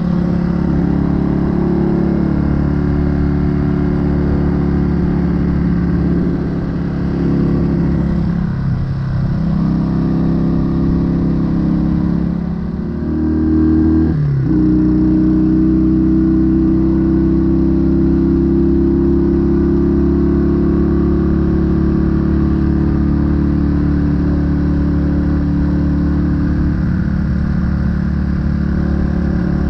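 1968 Honda Dream CD250 motorcycle engine and exhaust running under way. The engine note drops off twice, picks up sharply about halfway through, then holds steady with its pitch slowly climbing.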